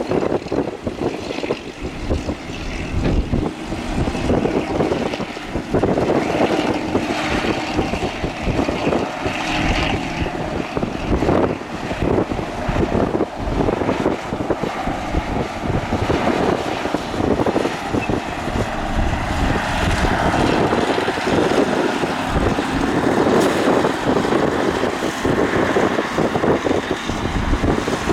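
Excavator's diesel engine running under load as it works, a steady mechanical din with wind buffeting the microphone.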